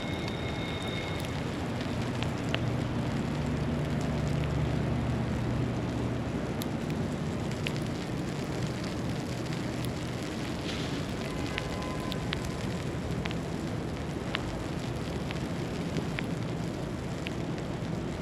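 City street ambience in a snowstorm: a steady rushing hiss with scattered faint ticks and crackles, under a low traffic rumble that swells between about two and seven seconds in.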